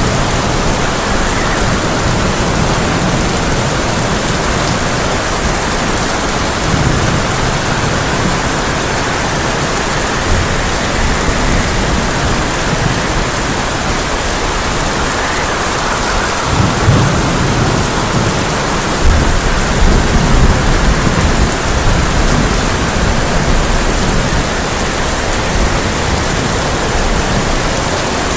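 Heavy rain pelting a tin roof in a steady, dense hiss, with deep rolls of thunder rumbling underneath, the strongest about two-thirds of the way through.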